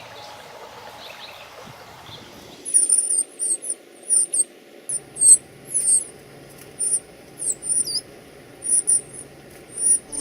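Small bird giving short, very high-pitched chirps in an irregular run, two or three a second, starting about three seconds in; before that, faint birdsong over a low hiss.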